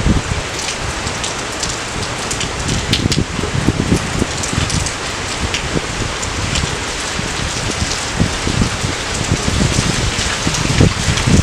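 Steady rain falling over rice paddies, a constant hiss with irregular low thuds and sharp ticks of drops landing close by.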